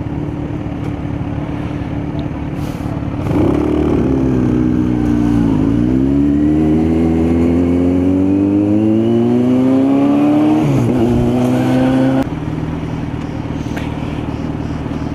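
Kawasaki Z900 inline-four motorcycle engine running steadily. About three seconds in the throttle opens: the note grows louder, dips briefly, then climbs steadily in pitch for about five seconds, with a short dip near the end. About twelve seconds in the throttle closes and the engine falls back to a quieter, steady note.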